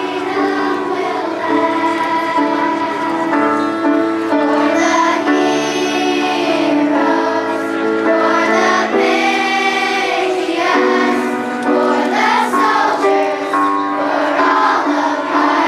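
Children's chorus singing in long, held notes that change pitch every second or two.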